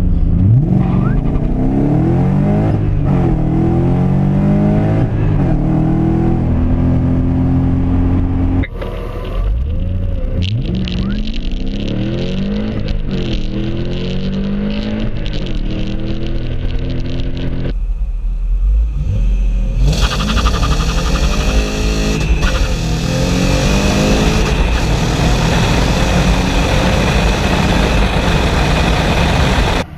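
BMW M60 V8 swapped into an E30 accelerating hard from a standstill, its revs climbing and dropping back at each gear change through several runs. Over the later runs a strong rushing noise rides along with the engine.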